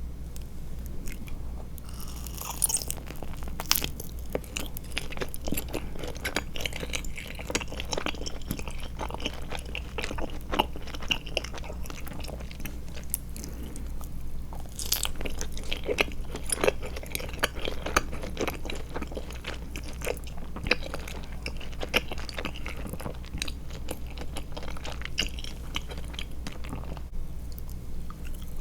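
A person chewing and biting Trolli Glotzer gummy eyeball candies, with a dense run of irregular wet clicks and crunches that picks up about two seconds in.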